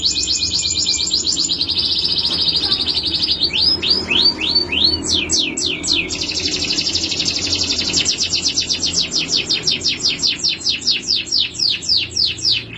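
Male canary singing: a fast high trill, then a slower run of falling sweeps about four a second, then another long fast trill.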